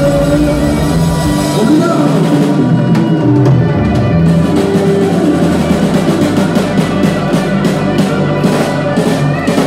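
A band playing, with a drum kit keeping a steady, rhythmic beat. After a couple of seconds the held notes fall away and the drum hits come to the fore.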